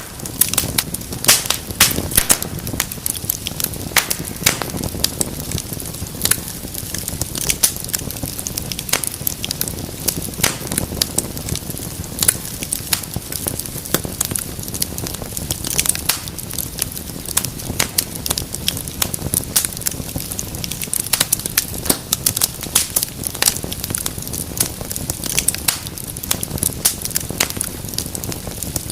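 Wood fire in a fireplace crackling and popping: dense, irregular sharp snaps of burning logs over a steady low rush of flame.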